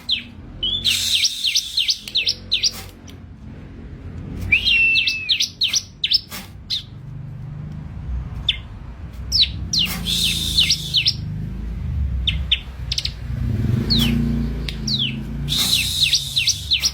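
Bar-winged prinia (ciblek) singing: bursts of rapid, high, sharply sweeping chirps, repeated every few seconds. A low rumble runs underneath in the second half.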